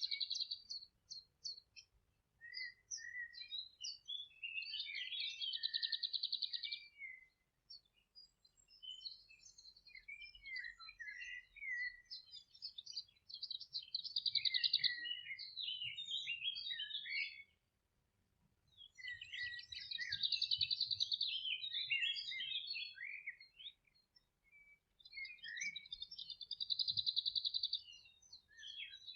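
Songbirds singing in a meadow: phrases of about three to five seconds, each with a fast trill high up, separated by short pauses of a second or so.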